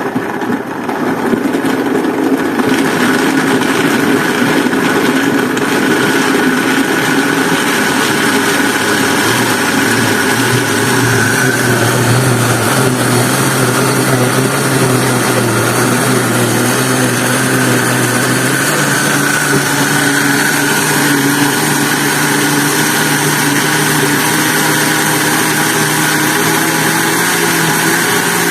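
Oster 1400 W blender motor running continuously, blending coconut pieces with water. Its pitch climbs in steps as the speed is turned up, once about a third of the way in and again past the middle.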